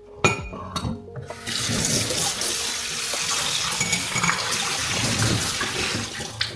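A few light knocks, then a kitchen tap running into the sink in a steady stream for about five seconds before it is turned off.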